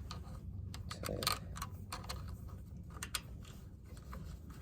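Scattered small metallic clicks and taps as a bolt is fitted by hand into a lawn mower engine part, over a low steady hum.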